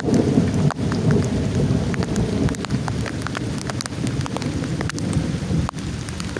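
Heavy rain falling, with scattered sharp drop impacts, over a low rumble of thunder that is loudest at the start and eases off.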